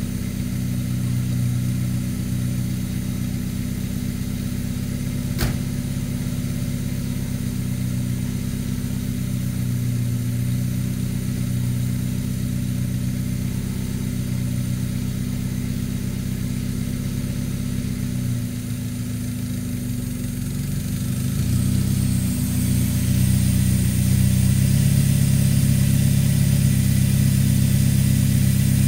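Swapped-in Mazda Miata 1.8-litre BP four-cylinder engine in a 1966 Datsun Roadster running steadily, with one sharp click about five seconds in. A little past two-thirds of the way through, the engine note gets louder and stays up.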